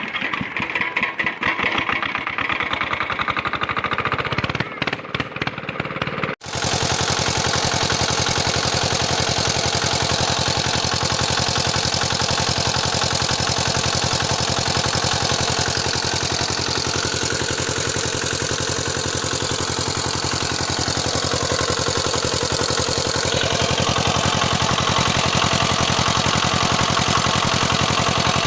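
A mini diesel engine running fast: uneven, rapid firing for the first six seconds, then after an abrupt change a steady, even run.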